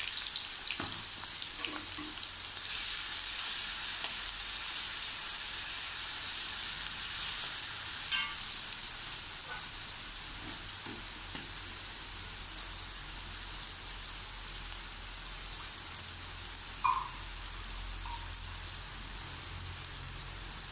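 Ground chilli, turmeric, fennel and shallot paste sizzling in hot oil in a kadai and being stirred with a slotted metal spoon: a steady hiss that slowly dies down, with one sharp tap about eight seconds in.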